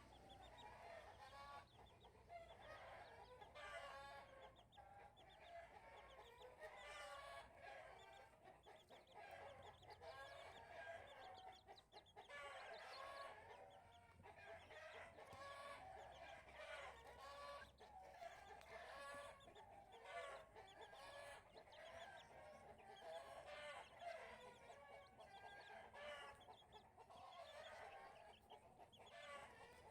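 Chickens clucking faintly and continually, short calls following one another with little pause.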